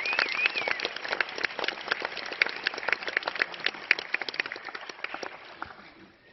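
Audience applause: dense, uneven clapping that thins out and dies away near the end. A brief high wavering cheer sounds over it at the start.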